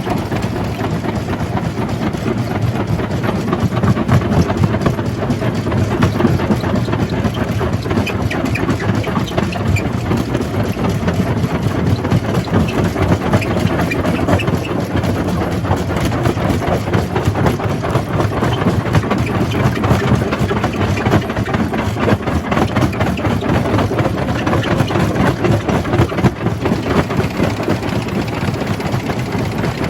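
Jaw crusher running and crushing rock: a steady heavy machine drone under a dense, continuous crackle of stone being broken.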